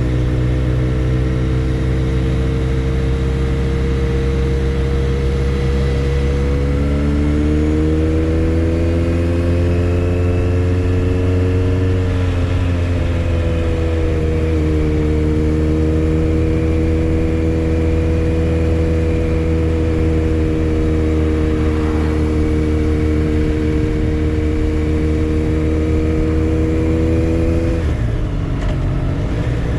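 Motorcycle engine running under way, steady in pitch, with the revs rising about seven seconds in, easing back down about thirteen seconds in, then holding steady until they drop off near the end.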